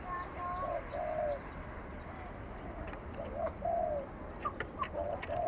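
Spotted dove cooing: short phrases of low coos, repeated three times a couple of seconds apart.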